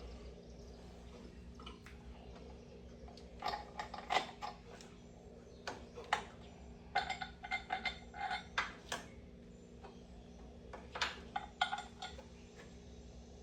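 Metal hand tools clinking and tapping against metal car parts during wrenching: irregular clusters of light, ringing clinks, grouped about a third of the way in, in the middle, and near the end, over a steady low hum.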